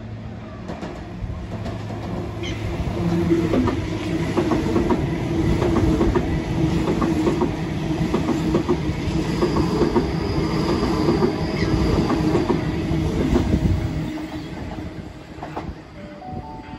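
Sydney Trains double-deck electric train running along the platform: a rumble with rapid clickety-clack of wheels over rail joints that builds, holds, then fades after about 14 seconds. A thin high wheel squeal sounds partway through.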